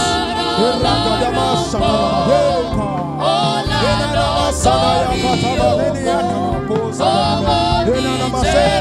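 Gospel music: singing voices, a choir or congregation, over a steady instrumental backing.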